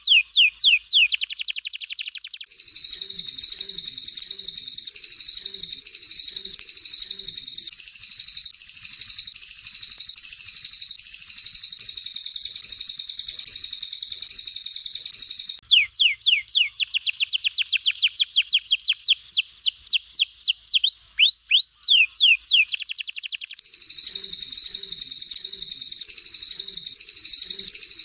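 Recorded songbird song of canary and cililin, a rough, rapid 'tembakan' style for training contest birds. Runs of fast downward-sweeping whistled notes, many a second, near the start and from about the middle until a few seconds before the end, alternate with long, dense, very high buzzing trills.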